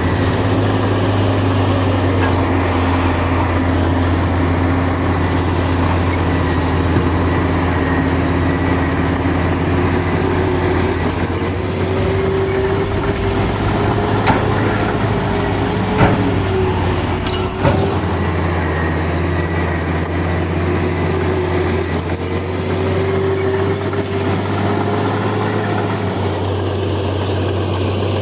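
Heavy diesel engine of earthmoving machinery running steadily under load, with a whine that comes in about a third of the way through and wavers in pitch, and three short knocks near the middle.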